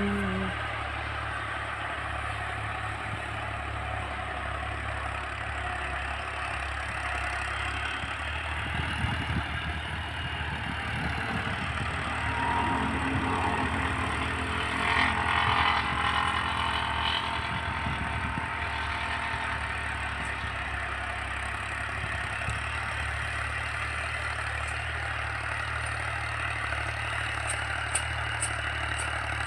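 Al-Ghazi New Holland 640 tractor's diesel engine running steadily under load as it pulls a harrow through the soil, with a rougher, louder stretch around the middle.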